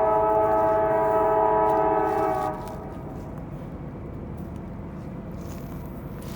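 Freight locomotive multi-chime air horn sounding a steady chord that cuts off about two and a half seconds in, leaving the steady rumble of the passing freight train.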